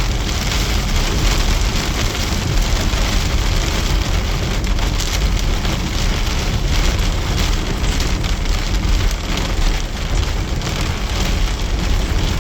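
Heavy rain pouring down steadily: a dense, even hiss with a strong low rumble underneath.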